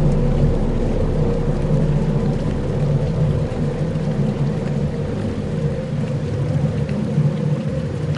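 Dark ambient drone: layered low sustained tones under a steady hiss of noise, with a deep rumble underneath that fades about halfway through.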